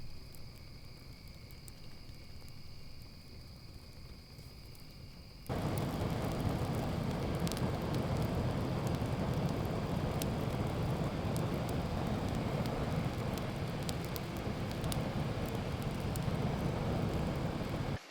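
A steady, high insect drone in the quiet evening woods, then, about five seconds in, a sudden cut to a campfire burning close up: a dense low rumble of flames with many sharp crackles and pops.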